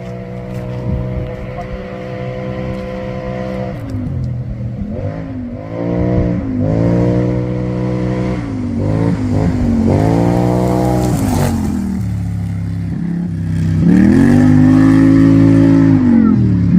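A vehicle engine under hard throttle: it holds a steady high pitch for a few seconds, then falls and climbs again several times as the throttle is lifted and reapplied, getting louder toward the end as it comes closer.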